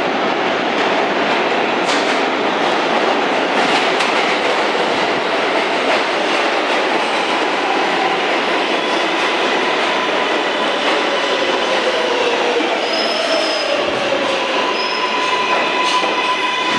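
R143 subway train on the L line running through the station. Its wheels click over rail joints and its motor whine falls slowly in pitch, and a high steel wheel squeal builds near the end.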